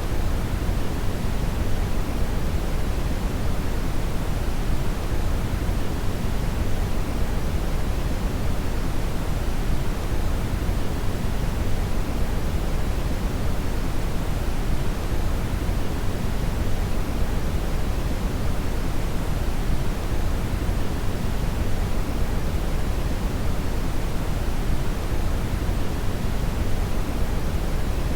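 Brown (red) noise: a steady, even rushing hiss, deep and rumbling, strongest in the low end and falling off toward the highs, without change.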